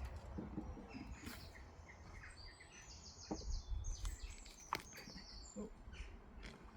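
A songbird singing in the background: a string of short chirps, then a quick high trill. Two soft knocks and a low wind rumble are also heard.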